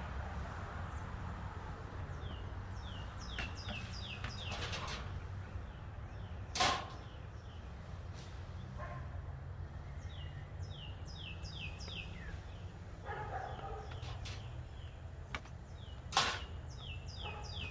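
Small birds calling in quick runs of short, falling high chirps, several runs over the stretch. Two sharp knocks cut in, one about six seconds in and one near the end.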